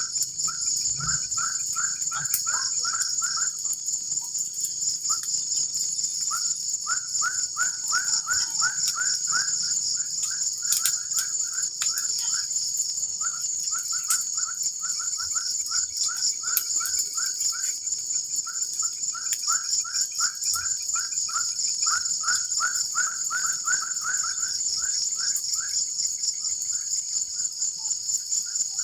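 Forest insects, crickets or cicadas, trill steadily in a high chorus. Over it, a repeated whistled call comes in quick runs of about five short notes a second, stopping and starting every few seconds.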